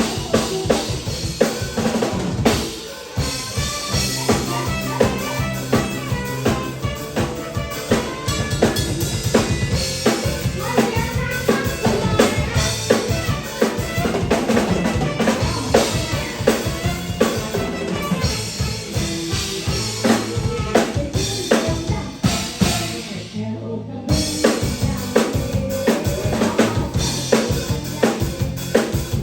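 Live mor lam band music driven by a drum kit played busily: quick bass drum, snare and rimshot strokes over a steady bass line.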